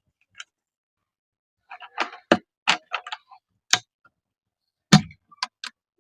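Irregular light clicks and knocks of a plastic oil bucket being handled and lifted away from a tractor's oil filler after pouring. There is a cluster of clicks about two to four seconds in and the loudest knock near five seconds.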